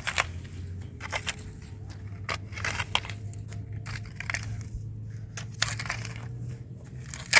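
Snow crunching in a run of irregular, short crunches, over a steady low hum.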